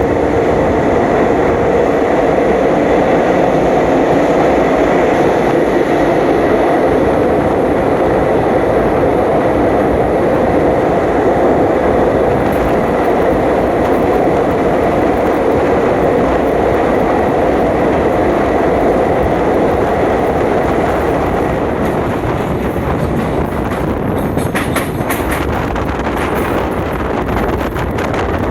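Passenger train running along the track, a loud, steady rumble of wheels on rails, with a run of sharp clicks in the last few seconds.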